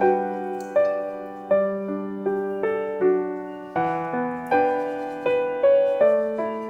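Background piano music: a gentle melody of single notes struck about every half second to second, each fading away.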